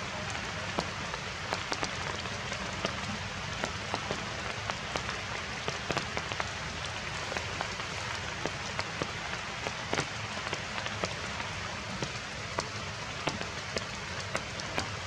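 Heavy rain falling steadily, with many irregular sharp taps of drops striking close by.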